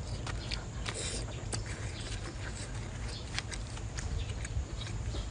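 Close-miked eating sounds of sea snail being chewed: irregular wet clicks and smacks, with a brief louder rustle about a second in, over a low steady hum.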